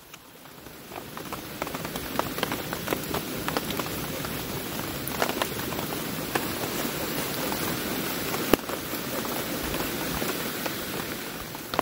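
Heavy rain falling steadily, with many sharp individual drops hitting close by. It swells up over the first second or two.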